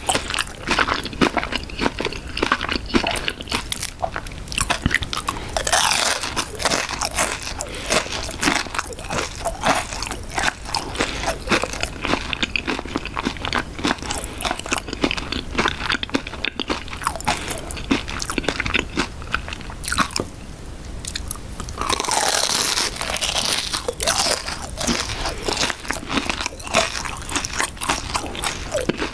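Close-miked biting and chewing of a McDonald's raspberry cream cheese pie's crisp fried crust: a steady run of crunches and small cracks, with louder stretches of crunching about six seconds in and again around twenty-two seconds in.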